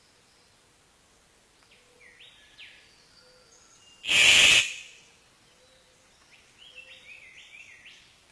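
Birds chirping in short, quickly sliding high notes, in two clusters a few seconds apart. About four seconds in, a loud, brief burst of noise is the loudest thing heard.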